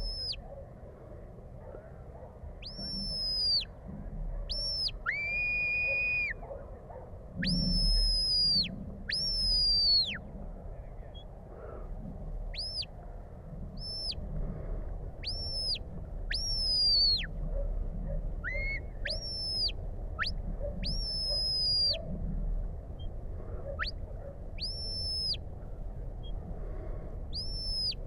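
Shepherd's whistle commands to a working sheepdog: a long run of short, high, clear whistle notes, most sweeping up and then dropping away at the end, some in quick pairs, with one lower held note about five seconds in.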